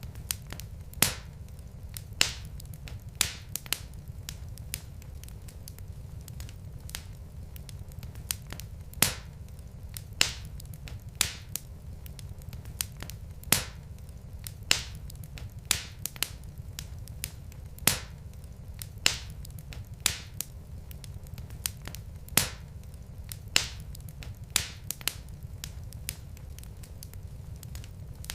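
Wood fire in a fireplace crackling: sharp, irregular pops and snaps, a bit less than one a second, over a steady low rumble.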